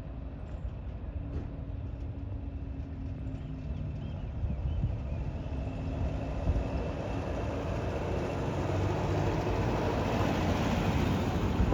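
A car engine running, growing steadily louder as the vehicle comes closer.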